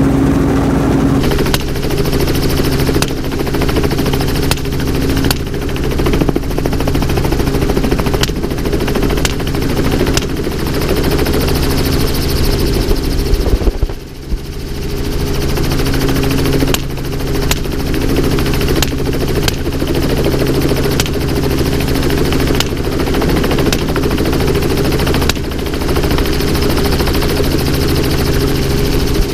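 Helicopter running steadily, with a string of gunshots fired at irregular intervals, often about a second apart.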